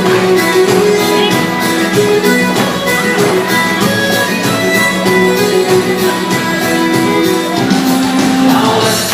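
Instrumental break of a folk ballad: guitar accompaniment under a melody line of long held notes.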